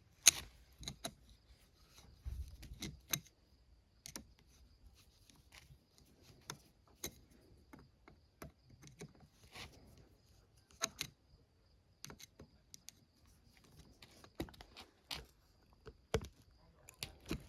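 Scattered light clicks and taps of small metal parts being handled as the air screw is screwed down into a snowmobile carburetor by hand, at irregular intervals, the loudest just after the start.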